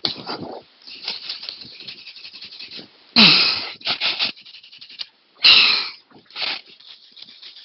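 Hand wire brush scrubbing rust off the steel final-drive hub of a mini excavator in quick short strokes, with two louder, longer scrapes about three and five and a half seconds in.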